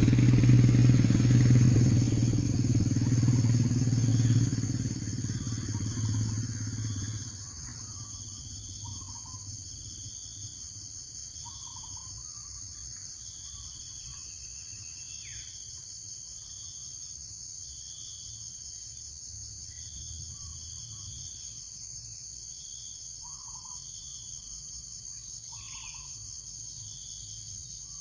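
A motor vehicle's engine hums and fades away over the first seven seconds or so. Under it and after it, insects keep up a steady high drone, with a chirp repeating about once a second and a few short, scattered calls.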